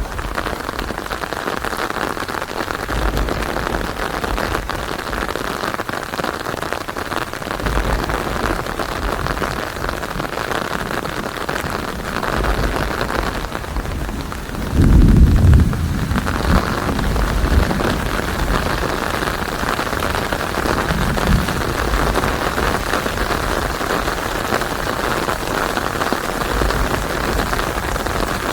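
Steady heavy rain falling, with low distant thunder rumbling now and then. About halfway through, a louder, deeper roll of thunder lasts a second or two.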